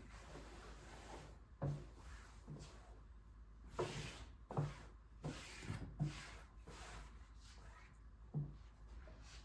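Household handling sounds in a small room: about seven short, light knocks and clacks of objects being moved and set down, with some rubbing, the loudest cluster in the middle.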